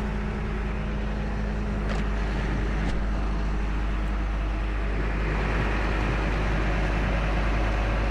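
A truck engine running steadily at idle, a constant low drone, with a couple of faint ticks about two and three seconds in.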